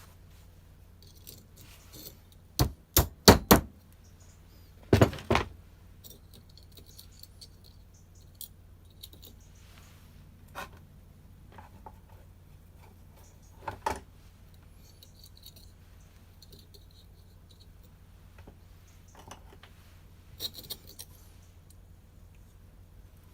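Small metal parts clinking and knocking against each other and on a workbench as a brush cutter's clutch is handled and reassembled, in scattered sharp clicks and clatters: a quick run of four a few seconds in, a heavier clatter soon after, and a few more later on. A low steady hum runs underneath.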